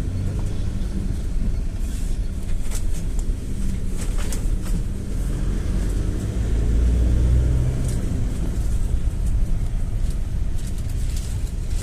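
GAZ-A68R52 Gazelle City minibus driving along the road: a steady low rumble of engine and tyres that swells about six seconds in, with light rattles and ticks over it.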